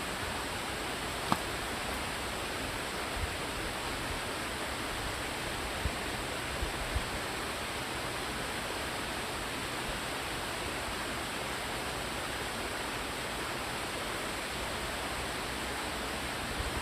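Waterfall rushing: a steady, even hiss of falling water. A single sharp click sounds about a second in, and a few soft low bumps come near the middle.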